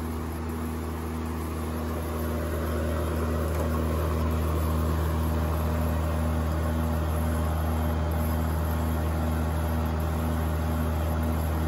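Vintage Danby 40-pint dehumidifier running: steady compressor hum under the rush of its fan, getting a little louder about two to three seconds in.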